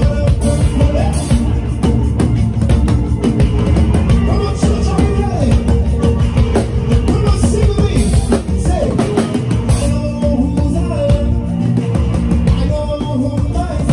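Live praise band playing a steady up-tempo groove with drum kit and bass, with a melodic line that slides up and down over it.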